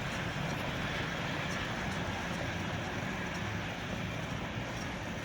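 Passenger train rolling past on the track: a steady, even rumble and rush of noise.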